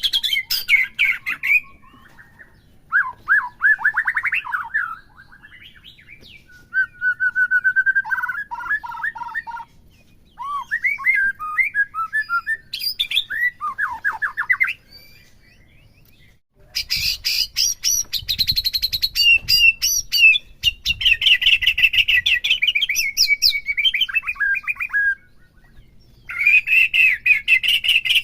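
White-rumped shama singing: a string of varied whistled and rattling phrases with short pauses between them, turning into a louder, fast chattering run past the halfway point.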